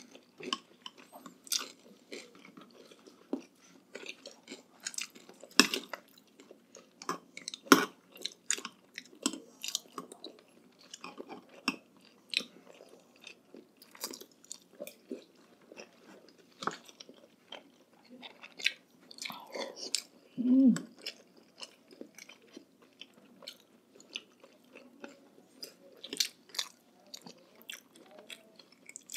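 Close-miked chewing and biting while eating balut, with many sharp clicks and crunches of mouth and spoon. A brief hum sounds about twenty seconds in.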